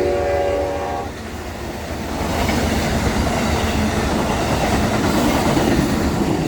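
A locomotive air horn sounds a multi-note chord that cuts off about a second in. It is followed by the steady noise of the train's wheels running on the rails as it passes.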